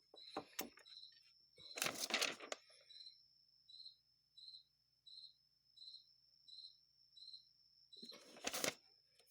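A cricket chirping steadily, about two short chirps a second, over a faint steady high whine. Twice, about two seconds in and near the end, comes a brief clatter of parts being handled.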